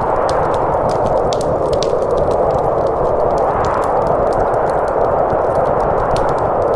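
Snowstorm wind blowing steadily, a rushing howl that slowly swells and eases, with the sharp pops and crackles of a wood fire scattered through it.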